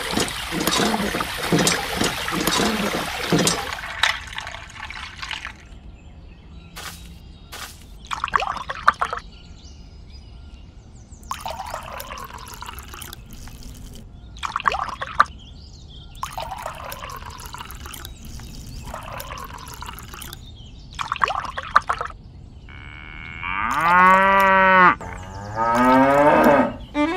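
Water splashing in a pulsing stream at the start, then poured from a small cup in a series of short splashes onto wet sand and into a small plastic trough. Near the end a cow moos twice, loudly.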